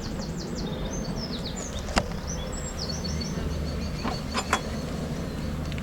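Honey bees humming steadily around an opened hive, with small birds chirping in short high notes. A sharp click about two seconds in and two quick clicks later on.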